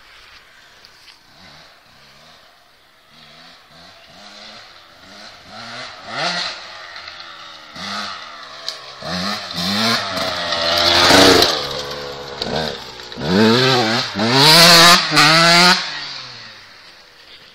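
2001 KTM 125 SX single-cylinder two-stroke dirt bike engine revving hard, the pitch climbing and dropping back again and again as it shifts through the gears. It grows louder over several seconds, is loudest in two stretches past the middle, then fades away.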